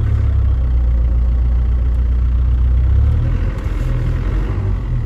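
Land Rover Defender's turbocharged engine droning under load, heard from inside the cab, easing off a little about three seconds in. The owner says the engine has lost much of its compression and has to be held at high revs on the climb.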